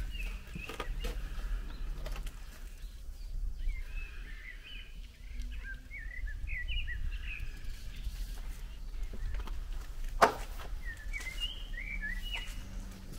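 Small songbird singing in quick runs of short chirpy notes, in three spells, over a steady low rumble. A single sharp knock about ten seconds in.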